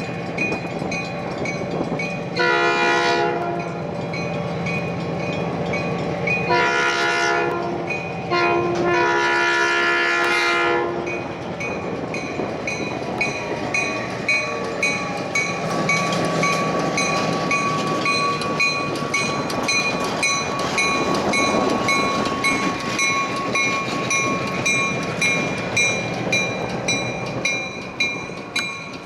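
Commuter train sounding its horn in three blasts, the last the longest, then rolling past with its wheels clicking over the rail joints, the clicks coming faster near the end. A grade crossing warning bell rings steadily throughout.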